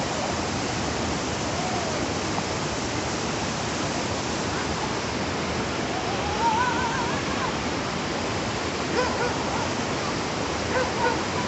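Waterfall rushing steadily, a constant even roar of falling water, with a few faint distant calls rising above it about six seconds in and again near the end.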